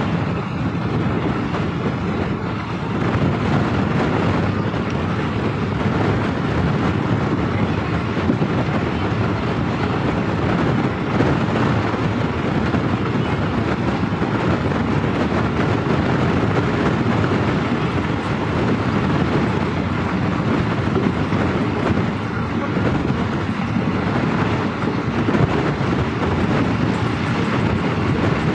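Passenger express train running on the line, heard from on board: a steady rumble and rattle of the coach wheels on the track.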